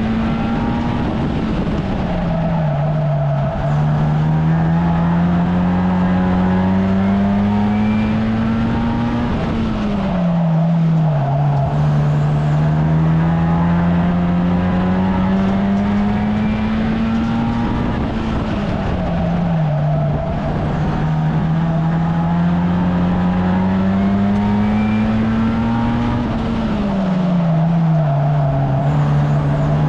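1300cc stockcar engine at racing speed. It climbs slowly in pitch for several seconds and then drops sharply as it lifts off, four times in a regular cycle, like lapping a short oval.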